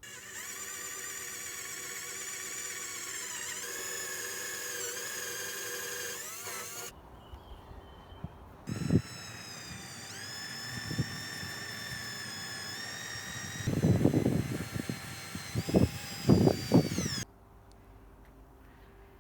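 Power drill running in two long bursts with a high whine that sags in pitch now and then under load. Several loud knocks come during the second burst.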